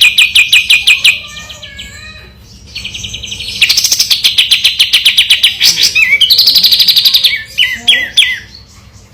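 Kapas tembak bird singing a long, rapid rolling trill of evenly repeated clear notes. The trill breaks off about a second in for some softer whistles, resumes for about four seconds, then ends in a few short separate notes.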